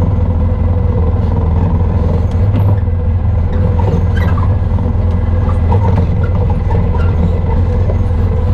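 Engine of an off-road side-by-side or quad running at a steady pace while riding, a constant low drone that holds level throughout.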